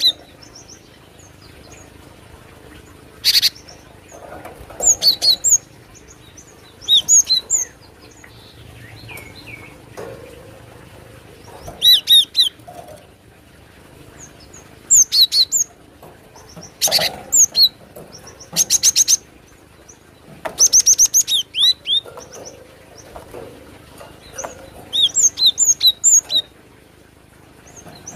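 Cinereous tit (glatik batu) calling in short bursts of rapid, high, clear notes, repeated every couple of seconds, with a few harsh rattling churrs mixed in.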